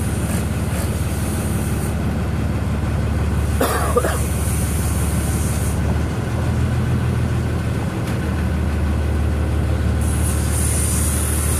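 Ferry's engine running with a steady low drone, its note shifting for a couple of seconds in the second half, under a hiss of wind and water. A brief higher sound breaks in about four seconds in.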